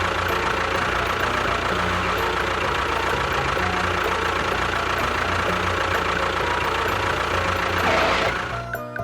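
A machine's motor running steadily with a high whine, dying away near the end.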